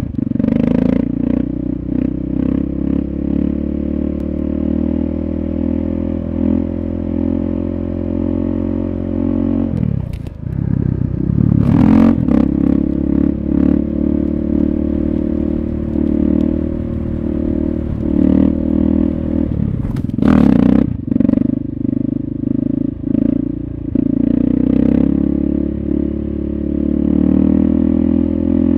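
KTM 640 supermoto's single-cylinder four-stroke engine running steadily under throttle, heard close up. Its pitch dips and climbs again about ten seconds in, with occasional clatter.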